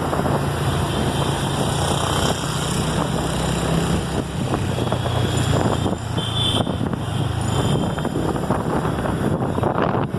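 Steady road traffic and vehicle engine noise, with wind buffeting the microphone.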